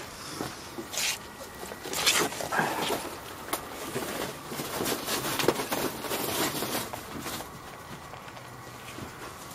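Rustling and scraping of young puppies being handled and set into a crowded container, with a few faint puppy whimpers.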